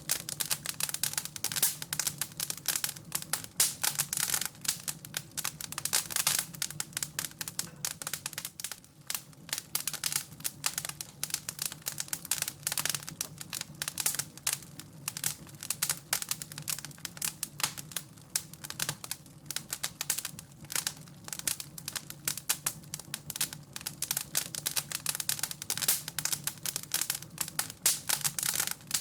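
Wood fire in a fireplace crackling and popping: dense, irregular snaps over a low steady hum.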